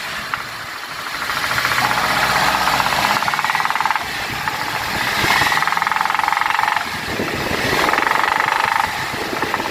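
Toyota Innova's 2.7-litre VVT-i petrol engine running and being revved in short bursts, with a rapid knock coming in during each burst. The mechanic takes it for connecting-rod knock; the engine proved to have a spun, failed connecting-rod bearing and a damaged crankshaft.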